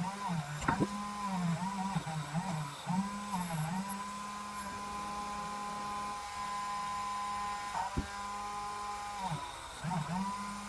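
Small handheld power tool motor whining, its pitch repeatedly dipping and recovering as it is pressed against the work, then running at a steady speed for several seconds. A sharp click sounds near the start and again near the end of the steady stretch.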